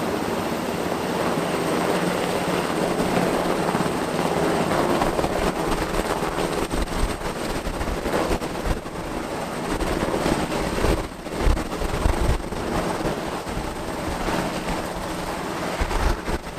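Steady roar of aircraft engines, with a few low thumps about two-thirds of the way through and again near the end.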